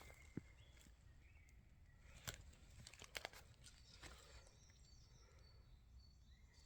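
Faint outdoor ambience with scattered short bird calls and a few soft clicks or snaps, the loudest about two seconds in.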